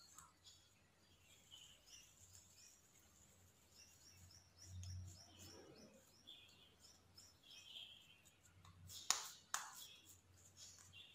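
Near silence with faint, high chirping of birds in the background, and a sharp click about nine seconds in.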